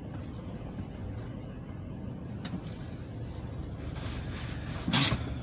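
Steady low rumble of wind buffeting the microphone. Near the end there is a brief, louder clatter or rustle.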